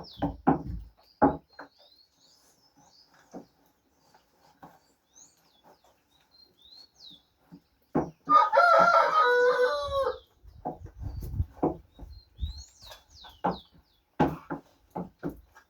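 A rooster crows once, a loud call of about two seconds starting about eight seconds in. Small birds chirp faintly throughout, and a quick rhythmic series of short strikes is heard near the start and again near the end.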